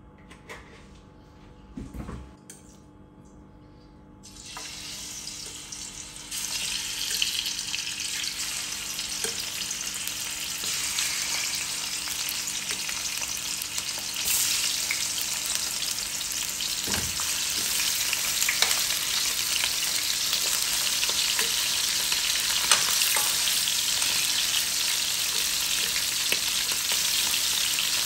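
Chicken thighs frying in hot oil in an aluminium wok. After a few quiet seconds a sizzle starts as the first pieces go in, jumps up a couple of seconds later and keeps growing louder as more pieces are added, with a few light clicks over it.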